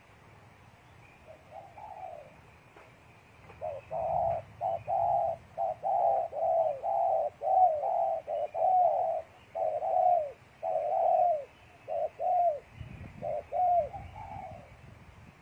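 Spotted doves cooing: a long run of short, falling coos, about two a second, starting a few seconds in and stopping near the end.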